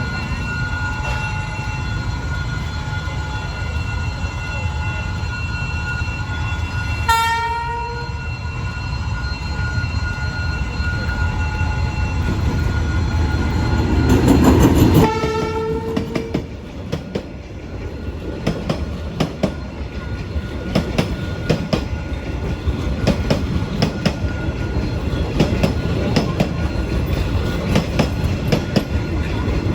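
A D19E diesel-electric locomotive passing with its train. Its horn sounds twice: a short blast about seven seconds in, and a longer one around fifteen seconds as the locomotive goes by at its loudest. After that the passing carriages' wheels click steadily over the rail joints.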